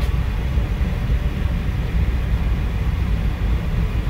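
Steady low running noise of an E4 Series MAX Shinkansen, heard inside the passenger car while the train is under way.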